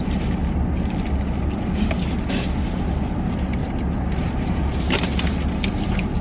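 Steady low rumble of a car's cabin with the engine running, with a few short sharp clicks over it.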